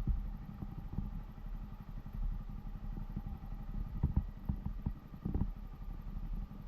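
Honda CBR250R's single-cylinder engine running under way, a fast, steady low pulsing with a few irregular thumps.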